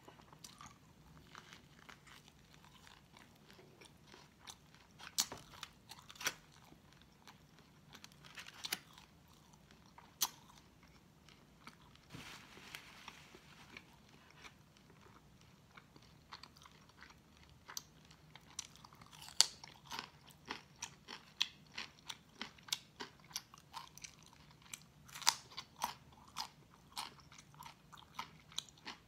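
Close-miked eating of baked pork loin and raw cucumber: chewing and biting with sharp crunches, which come thicker and louder in the second half.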